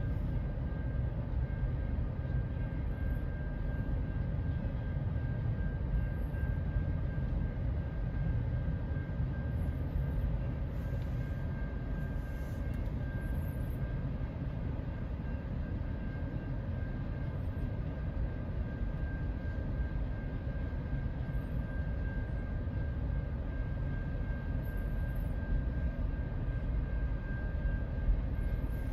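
CN double-stack container freight train rolling steadily through a level crossing: a continuous low rumble of wheels and cars on the rails, with a thin steady high tone over it.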